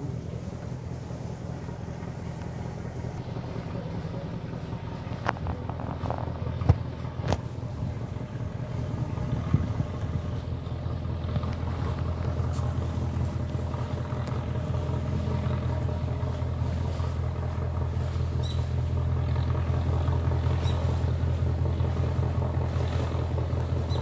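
River boat's diesel engine running steadily, a low hum that grows gradually louder, with a few sharp knocks between about five and ten seconds in.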